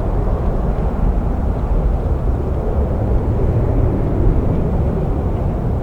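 Boeing 737-800 jet airliner's CFM56 turbofan engines at takeoff power, a steady jet rumble with no distinct whine, mixed with strong gusty wind buffeting the microphone.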